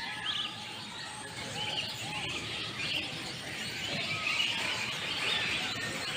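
Many birds chirping and calling at once, a busy chorus of short calls over a steady hum of background noise.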